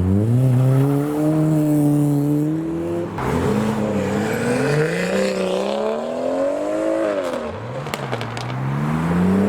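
Car engines accelerating hard as modified cars pull away, the engine note climbing in pitch, dropping back about three seconds in and again near the end, then climbing again, as with gear changes or one car following another.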